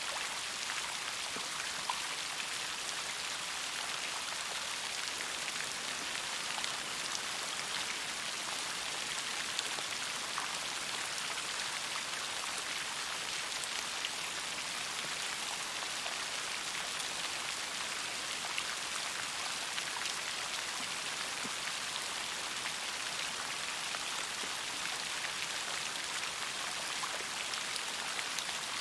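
Steady rainfall: a continuous hiss with scattered sharp ticks of single drops striking.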